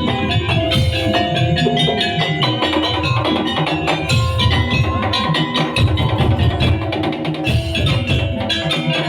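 Madurese daul (tong-tong) ensemble playing: dense, fast rhythmic beating on wooden slit drums and drums, with pitched notes running through it.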